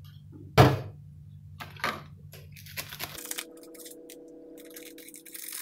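Kitchen containers and utensils knocking and clinking as dough ingredients are handled, with one sharp loud knock about half a second in and several lighter clicks after it.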